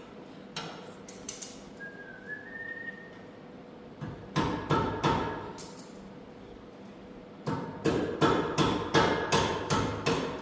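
Hammer blows on metal in three bursts of quick, ringing strikes, the last and longest with about nine strikes. A short rising whistle sounds about two seconds in.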